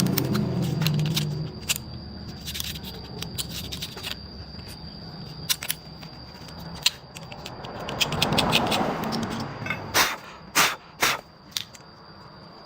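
Hand work on metal machine parts: clinks, taps and scraping, with three louder knocks near the end. A low running hum stops about a second and a half in.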